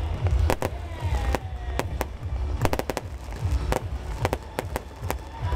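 Aerial fireworks going off: a rapid, irregular run of sharp bangs and crackles over deep rumbling booms from the shell bursts.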